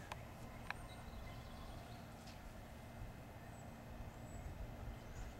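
Quiet outdoor background: a steady low rumble with two faint clicks in the first second.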